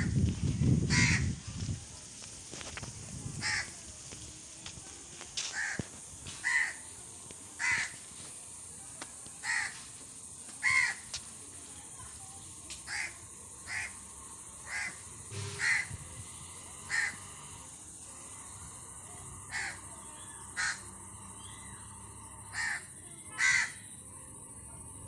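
A crow cawing repeatedly, single short caws every second or two. A loud low rumble fills the first second or so.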